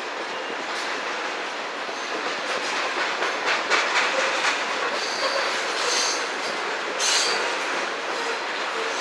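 Covered hopper cars of a freight train rolling past, steel wheels clacking over rail joints, with a few brief high wheel squeals in the second half.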